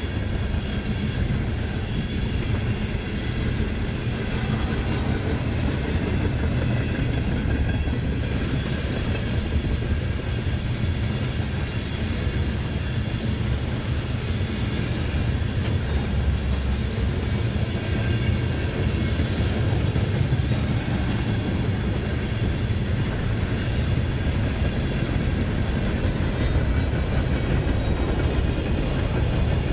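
Freight train's railcars rolling past with a steady low rumble.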